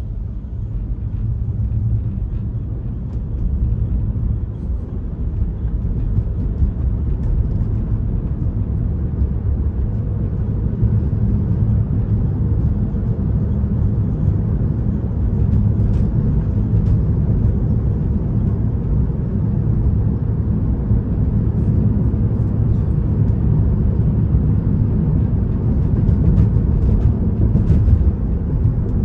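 Steady road and tyre rumble of a Tesla electric car travelling at freeway speed, heard from inside the cabin. It builds slightly over the first few seconds and then holds.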